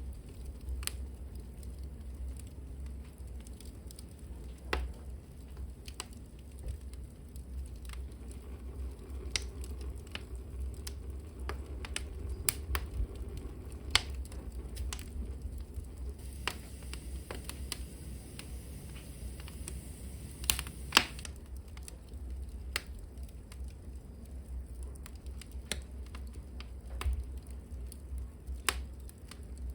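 Wood fire burning in a fireplace hearth, crackling with irregular sharp pops over a low steady rumble. The loudest pops come about halfway through and again about two-thirds of the way through.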